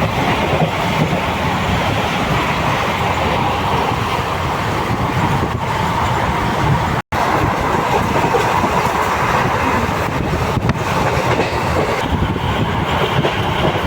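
Train running at speed on the rails: a steady loud rumble with wheel clatter. The sound drops out completely for an instant about seven seconds in.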